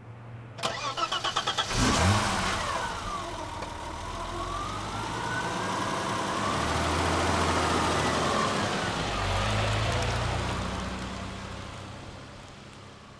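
BMW E30's engine cranked by the starter for about a second with rapid even pulses, then catching and firing up. It settles into running, its speed dipping and rising slowly, and fades out near the end.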